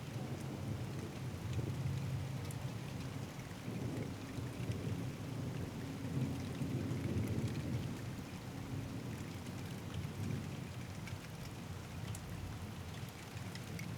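Steady rain with scattered drops ticking, under a low rumble of thunder that swells through the middle and eases off.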